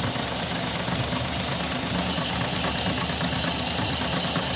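Three-cylinder live-steam Shay model locomotive engine running steadily under steam, a fast even mechanical clatter of pistons and gears with steam hiss, its water pump working as it is run in.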